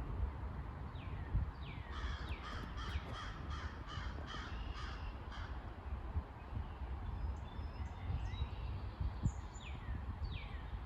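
A bird calling: a quick run of repeated calls through the first half, with falling calls about a second in and again near the end, over a steady low rumble.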